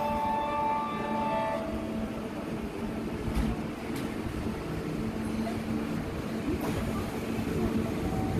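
Kintetsu 15400 series electric train pulling slowly out of a station, a low rumble of motors and wheels with a few sharp clicks of wheels over rail joints. A steady tone of several notes at once stops about one and a half seconds in.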